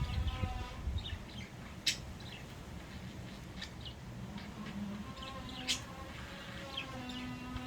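Pet budgerigars chirping and chattering, with short high chirps scattered throughout and warbling near the start and end.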